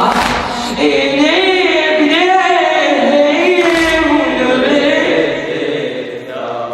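Unaccompanied voices singing a Shia latmiya, a religious lament in Arabic, the melody rising and falling in long held notes.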